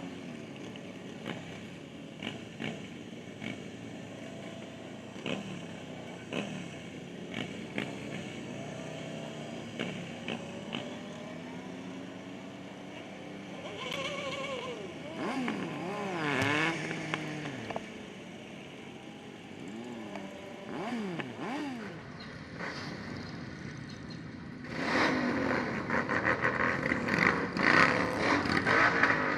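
Motorcycles and cars of a large group ride passing and revving, engine pitch rising and falling. The noise gets louder and denser near the end.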